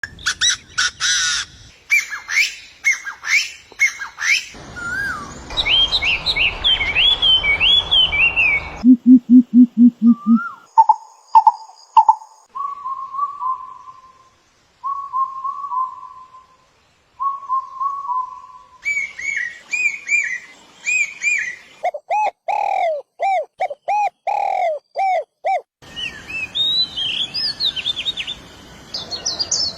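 Songbird calls from several different birds in a row, each segment cut in abruptly: rapid sharp chirps, then warbling whistled phrases, a brief low rapid trill, a run of short repeated whistled notes, and finally quick looping chirps.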